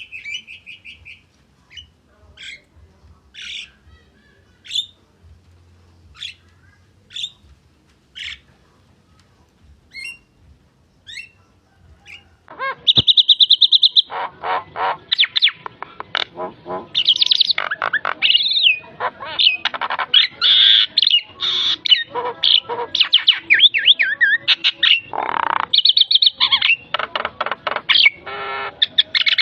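Javan myna singing, its song full of mimicked phrases. For the first twelve seconds it gives short, sparse calls about once a second, then suddenly breaks into a loud, dense run of rapid, varied chattering and trilled phrases.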